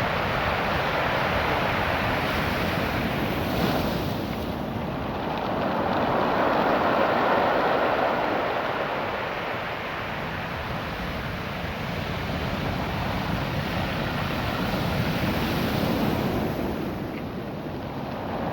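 Ocean surf washing over a beach of small, naturally rounded stones, the stones rattling and grinding as the water surges up and drags back. The rushing noise swells and ebbs in slow surges, with wind buffeting the microphone.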